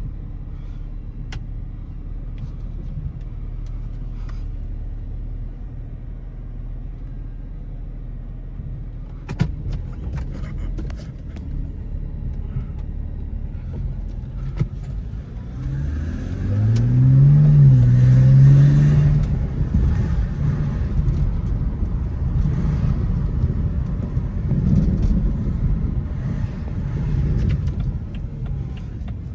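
BMW E82's engine running steadily at idle, with a sharp click about nine seconds in. A little past halfway it revs up as the car pulls away: the note rises, dips briefly and rises again, then settles into steady engine noise while driving.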